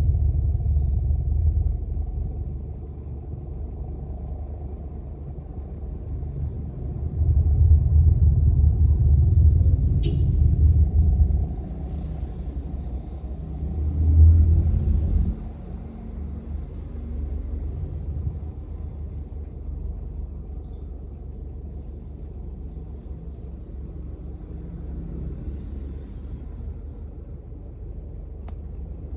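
Low rumble of strong wind buffeting the microphone, swelling in two gusts, one about a quarter of the way in and a shorter one about halfway, with a single click between them.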